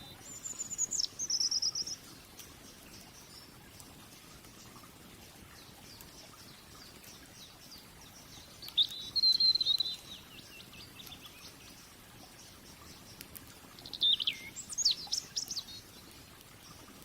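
A songbird singing three short, high, warbling phrases: at the start, about nine seconds in, and about fourteen seconds in. Between them a steady low hiss with a few faint crackles, as from a wood fire.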